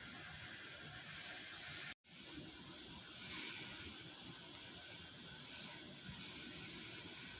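Steady sizzling hiss of food frying in a pan, cut off for an instant about two seconds in and then going on as before.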